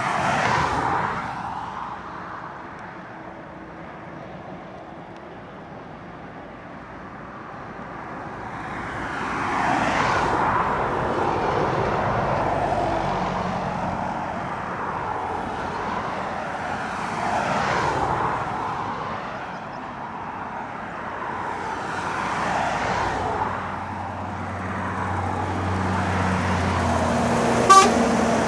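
Heavy lorries passing one after another on an uphill climb, each rising and falling as it goes by, with a low steady diesel drone from a truck pulling hard up the grade through the middle and later part. A short sharp click near the end.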